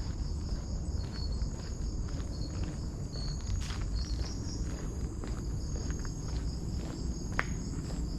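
Footsteps on a trail under a steady, high-pitched insect chorus, with one sharp click about seven seconds in.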